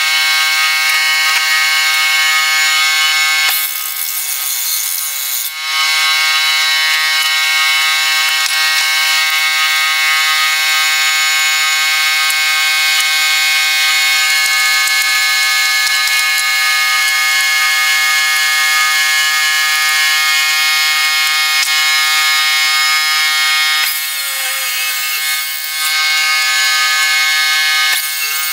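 A workshop machine runs with a steady, loud, pitched whine. About four seconds in, and again near the end, the whine drops back briefly under a rougher hissing noise.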